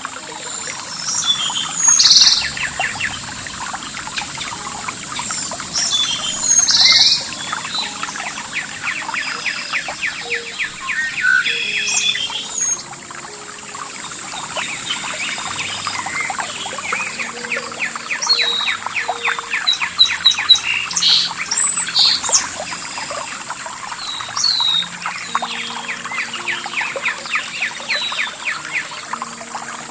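Several birds singing and calling together: rapid trills, quick chirps and short sweeping whistles, overlapping one another, over a steady high-pitched tone. Faint sustained low notes sit underneath.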